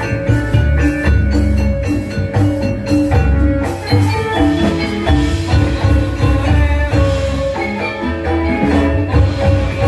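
Balinese gamelan playing: ringing metallophone notes over drums and a low gong.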